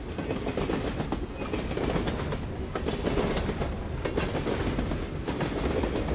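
A freight train's cars rolling past on the rails: a steady low rumble with a clickety-clack of the wheels over the rail joints.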